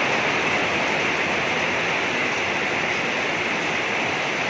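Heavy rain pouring down steadily, an even hiss with no break.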